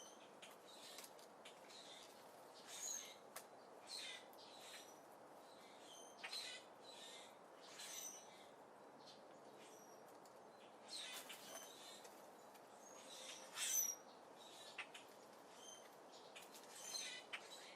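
Faint short chirps and calls of small birds at a seed feeder, with scattered sharp clicks, over a steady low background hiss. The loudest chirp comes near the end.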